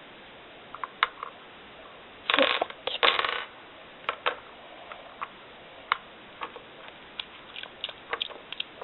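Small plastic toy figures and accessories being handled: scattered light clicks and taps, with two short rustling scrapes a little over two and three seconds in.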